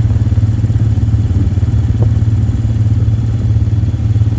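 Quad bike engine running steadily at an even pace, a fast low pulsing drone close to the microphone.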